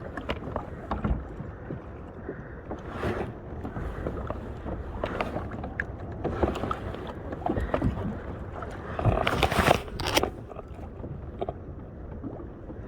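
Irregular knocks, clicks and scrapes of fishing gear being handled aboard a plastic fishing kayak, over steady water and wind noise, with a louder clatter about nine to ten seconds in.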